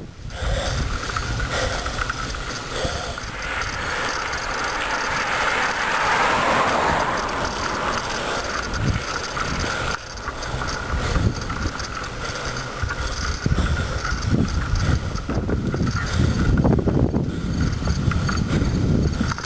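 Bicycle rolling fast downhill: a steady rush of tyre and wind noise, with wind buffeting the microphone in irregular low gusts through the second half.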